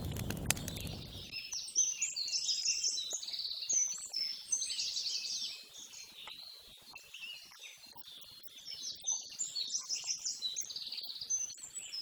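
Several songbirds chirping and twittering at once in a dense, high chorus, thinning briefly in the middle. A low noisy sound fades out about a second in before the birdsong starts.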